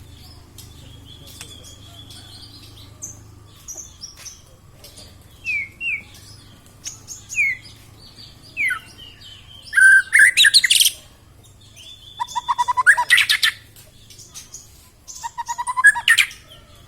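Young white-rumped shama singing: scattered short down-slurred whistles and chirps, then loud, rapid trilled phrases about ten seconds in, again around twelve to thirteen seconds, and near the end. The varied phrases are the bird's repertoire of imitated songs.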